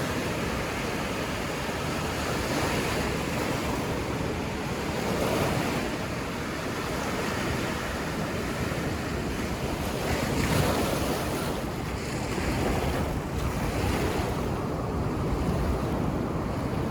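Ocean surf washing on a beach: a continuous rushing noise that swells and eases every few seconds as waves break, with some wind on the microphone.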